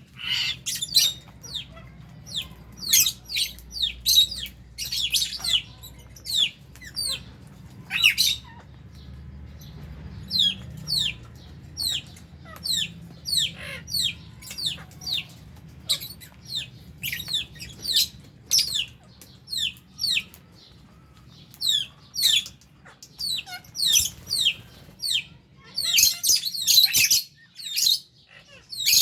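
Flock of lovebirds calling in an aviary: a continuous run of short, high, shrill chirps, crowding together near the end.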